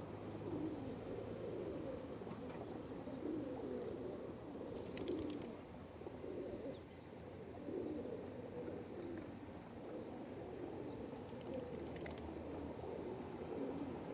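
A flock of feral pigeons cooing continuously, many voices overlapping.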